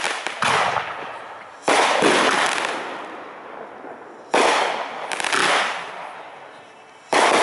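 Aerial fireworks shells bursting, about five sharp bangs, each trailing off over a second or two.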